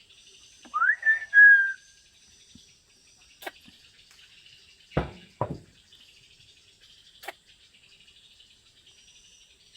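African grey parrot whistling: a quick rising whistle and then two held whistled notes about a second in. Four sharp clicks or knocks follow over the next few seconds, over a faint steady high hiss.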